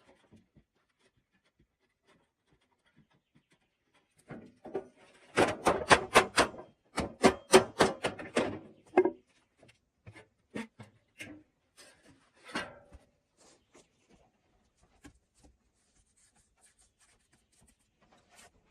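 A quick run of sharp knocks, about five a second, for some four seconds with a short break in the middle, then a few scattered single knocks.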